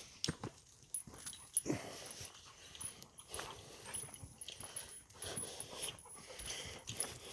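A dog close by, breathing hard and whimpering, over irregular crunches and steps on a woodland path.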